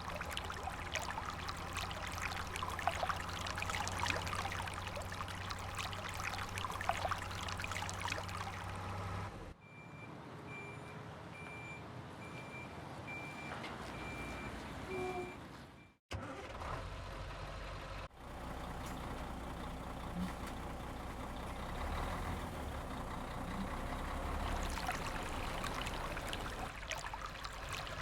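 Truck engine running steadily with clicks and rattles. After a cut comes a reversing beeper repeating a high beep about once every 0.7 s. After another cut, a low engine rumble mixes with running water.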